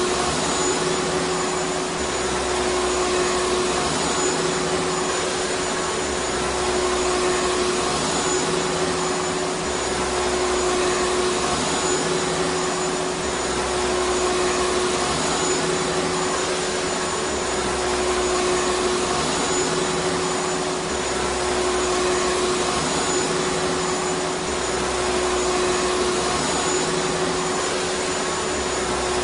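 Vacuum cleaner running steadily: an even rushing noise with a steady hum in it, the level swelling and easing slightly every few seconds.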